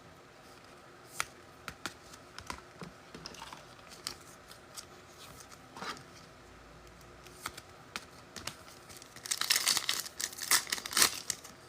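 Trading cards handled with scattered light clicks and taps, then a foil card-pack wrapper being torn open and crinkled near the end.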